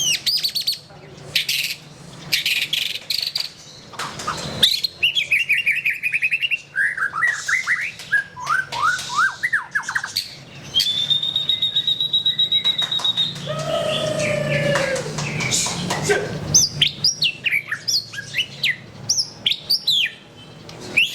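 White-rumped shama singing a varied song: runs of rapid repeated chirps, a series of notes stepping down in pitch, a long steady whistle about halfway through, then lower notes and quick sharp chirps.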